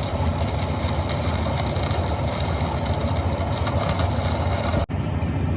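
An engine idling steadily, with a brief dropout near the end.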